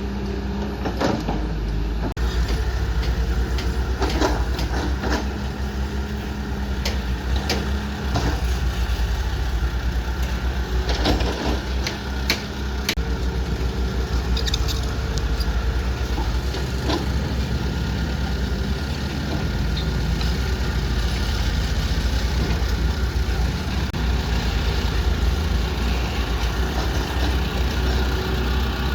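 Heavy diesel engine of an excavator running steadily, with scattered sharp metallic knocks and clanks during the first half.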